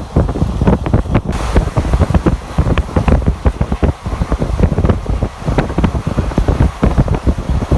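Passenger train running at speed, heard from on board: wind buffeting the microphone over a dense, irregular clatter of wheels and coach.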